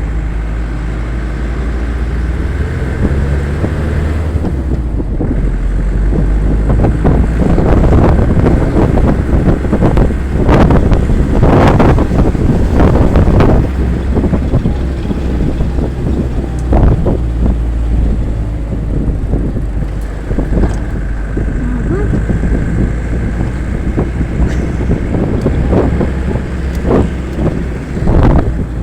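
A vehicle engine running while driving over a rough road, with frequent knocks and rattles from the bumps and wind buffeting the microphone. The bumping is heaviest about a third of the way in.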